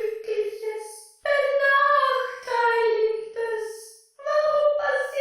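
A high voice singing slow, held phrases of a sad, falling melody without words being picked out, each phrase about a second long with short breaks between.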